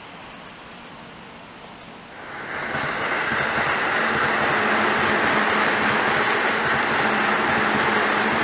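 Steady hiss of outdoor ambience over a rainy rail yard. About two seconds in, it gives way suddenly to the much louder running noise of a Keihin-Tohoku Line E233-series electric commuter train passing close by: a dense rush of wheel and rail noise with a faint steady hum.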